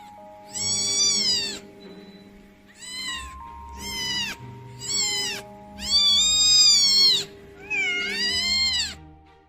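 A cat meowing five times, each meow rising and then falling in pitch, the fourth the longest, over soft background music with long held notes.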